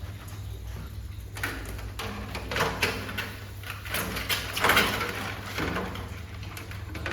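Several short scraping and sliding sounds of parts being handled, the loudest about four to five seconds in, over a steady low hum.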